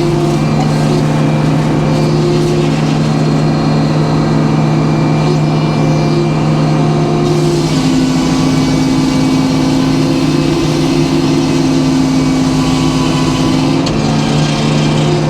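Sawmill running steadily under power: a constant low engine drone, with a higher tone that comes and goes several times.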